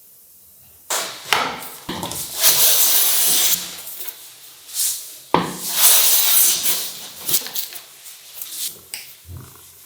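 A hand tool working wood: two long strokes of hiss-like scraping, each starting with a sharp knock, about 2 and 5 seconds in, with shorter scrapes and taps around them.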